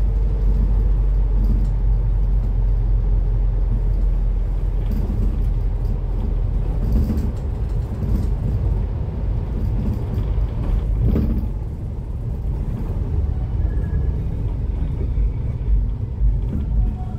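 Cummins ISF3.8 four-cylinder turbo-diesel of a Daewoo Lestar bus running, heard from inside the bus as a steady low rumble. There is a short knock about eleven seconds in, and the engine gets a little quieter just after it.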